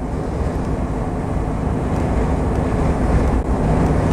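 Steady drone of an articulated lorry on the move: engine hum with road and tyre noise, getting slightly louder towards the end.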